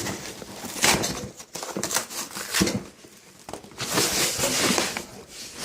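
Cardboard shipping box being opened by hand: the flaps rustle and scrape, with irregular knocks and clicks as the packed contents are moved about.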